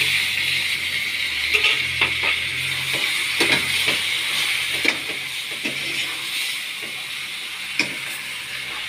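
Roasted, peeled eggplant sizzling in hot oil and fried seasoning in a frying pan as it goes in and is stirred, the sizzle easing slowly. A spoon clicks and scrapes against the pan now and then.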